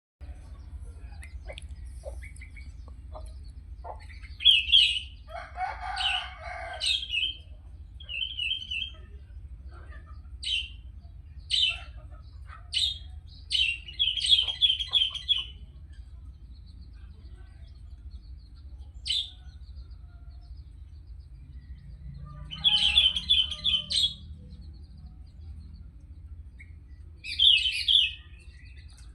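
Sooty-headed bulbul singing in short bursts of bright, rapid notes, about a dozen phrases with pauses between them, over a steady low hum. A lower, longer sound sits under the song about five seconds in and again near the end.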